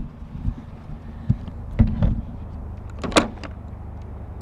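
A vehicle's engine running steadily, with several short knocks and clicks over it, the sharpest a little past three seconds in.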